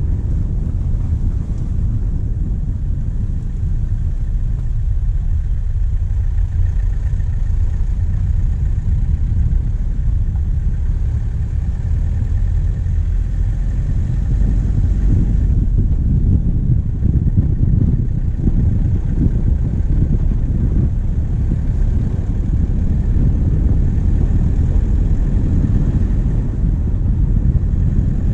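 A vehicle's diesel engine running steadily under way, heard close up from the bonnet, a low rumble that grows a little louder about halfway through.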